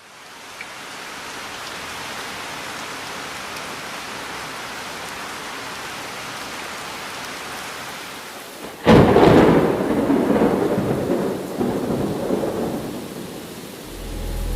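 Steady rainfall fading in, then a sudden loud thunderclap about nine seconds in, its rumble dying away over several seconds; a deep rumble of thunder builds again near the end.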